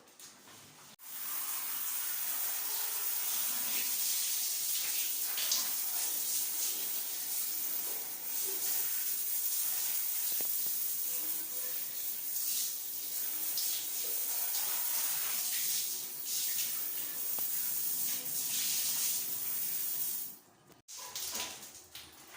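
Water running and splashing from a tap or shower as a bathroom is rinsed, a steady hiss that starts suddenly about a second in and cuts off near the end.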